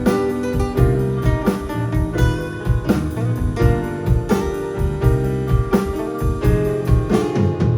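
A live band playing, with drum kit, guitar and keyboard, to a steady beat.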